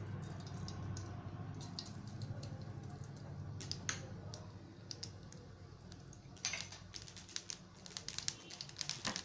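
Mustard seeds popping in hot oil in a pan, scattered sharp pops that become thicker and louder from about six and a half seconds in as the seeds start to splutter, over a steady low hum.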